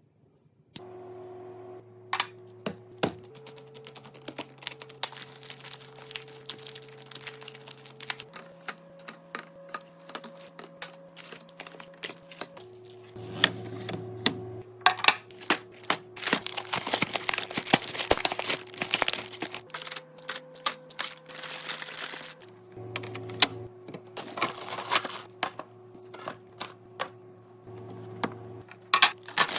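Rapid clicks, taps and light clatter of containers and items being handled and set down while a fridge is restocked, over soft background music with slow held chords that change every few seconds.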